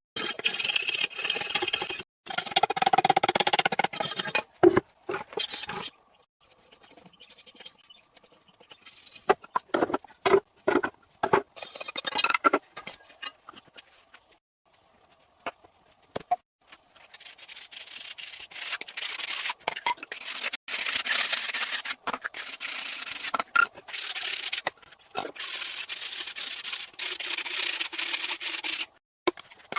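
Hand tools working wood in short edited clips: stretches of rough sawing or rasping strokes, with a run of sharp knocks in the middle.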